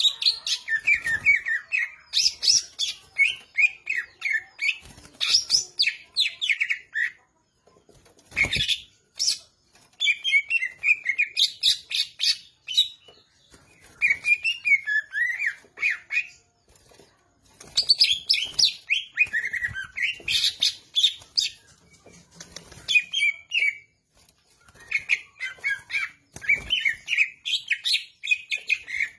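Greater green leafbird (cucak ijo) singing, rapid chattering and warbling phrases broken by short pauses. A single knock sounds about eight seconds in.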